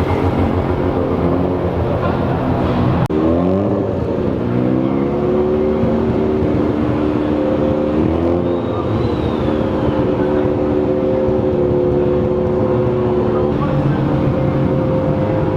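Car engine revving hard: after an abrupt break about three seconds in, the revs climb and are held high and steady, climb again about eight seconds in, and stay held for several seconds more.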